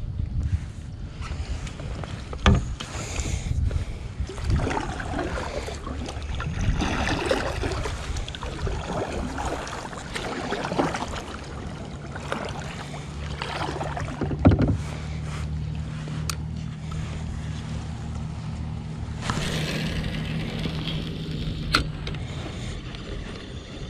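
Kayak paddle strokes splashing and dripping in the water, with a few sharp knocks, the loudest about two and a half seconds in and about halfway through. A low steady hum runs from about halfway to near the end.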